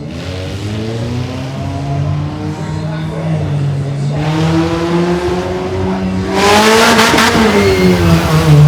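Mini monster truck engine revving up as the truck accelerates, rising in pitch and growing steadily louder. The run goes to full throttle about six seconds in, just before a jump.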